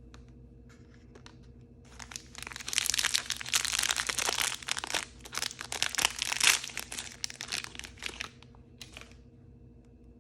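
Plastic blind-bag packaging crinkling and tearing open, a dense crackle that starts about two seconds in and runs for about six seconds, with a short last crinkle near the end.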